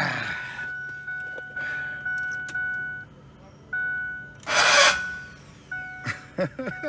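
Ford F-150 being started: a steady high chime tone sounds on and off, and a short, loud, harsh burst of noise comes about four and a half seconds in. The owner puts the trouble starting down to a bad starter rather than the flywheel.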